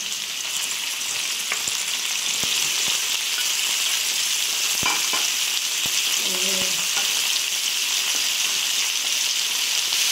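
Ground pork sizzling in hot oil with onions and garlic in an aluminium wok: a steady frying hiss, with a few light clicks scattered through it.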